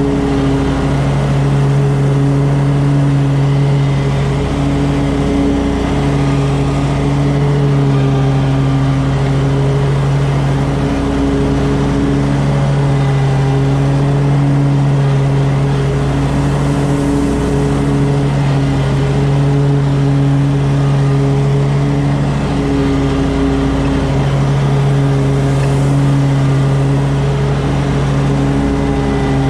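An engine running steadily at a constant speed, a loud even hum with no changes in pitch.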